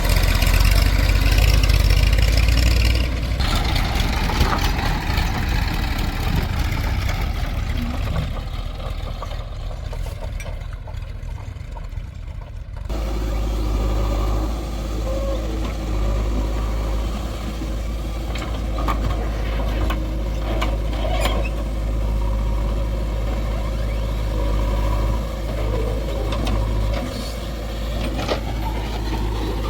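Heavy diesel machinery running steadily, a low engine hum from the backhoe loader and tractors at work. The sound changes abruptly about three seconds in and again about thirteen seconds in.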